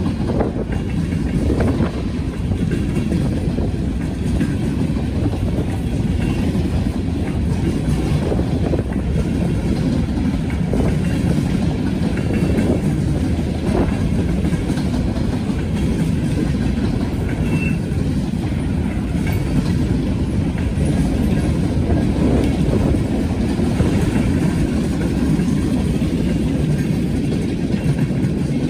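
Norfolk Southern freight train rolling past, a steady low rumble mixed with heavy wind buffeting the microphone.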